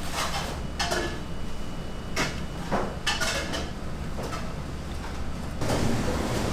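Kitchen clatter: a run of separate knocks, clacks and scrapes, then a steadier rushing noise from about five and a half seconds in.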